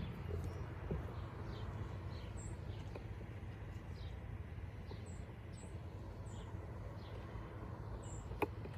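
Small birds giving short, high chirps, scattered through and faint, over a steady low rumble. A single sharp click comes near the end.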